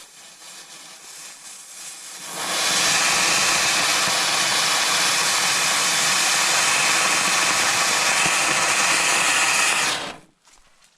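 Catherine wheel firework burning: a faint fizz, then about two seconds in a loud, steady hiss of spraying sparks that runs for about eight seconds and cuts off suddenly as it burns out, with no bangs.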